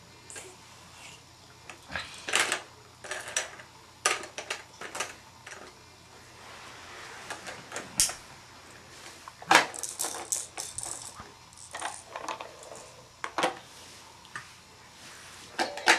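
Hard plastic toy pieces, a toy train and its animal figures, clattering and knocking as a toddler handles them: irregular clicks and taps, a few sharper knocks among them.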